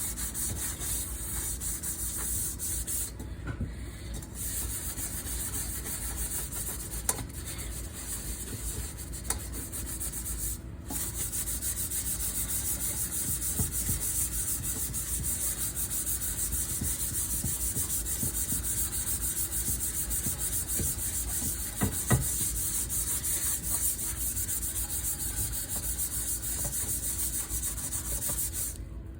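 A pan being scrubbed hard and continuously, a rapid rasping rub that breaks off briefly twice, about three and eleven seconds in.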